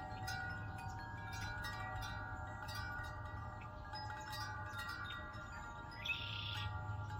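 Wind chimes ringing in a breeze, several overlapping tones struck again and again and left to ring on. A short, rough, higher-pitched sound cuts in briefly about six seconds in.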